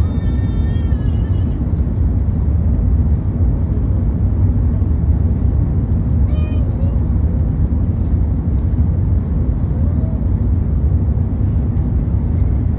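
Airbus A380 cabin noise heard from a passenger seat: a loud, steady low rumble of engines and airflow.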